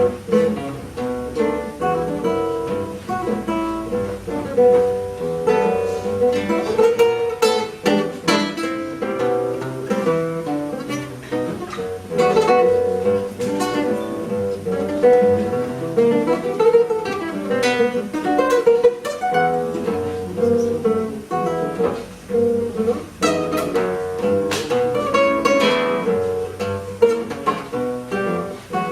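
Solo classical guitar playing a jazz-blues piece, fingerpicked single-note lines mixed with sharply struck chords.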